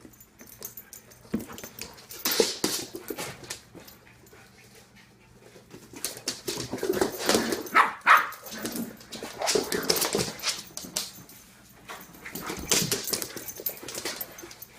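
A dog vocalizing, with barks and whines, in about four bouts separated by short pauses.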